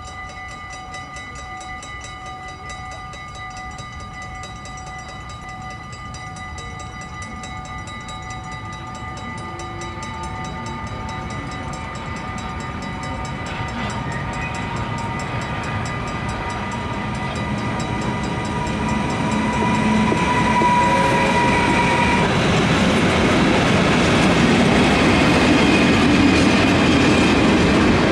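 Electric locomotive hauling a long freight train of tank wagons approaching and passing close by. Steady whining tones grow louder as it nears and stop suddenly about three quarters of the way through, after which the rumble and clatter of the tank wagons rolling past stays loud.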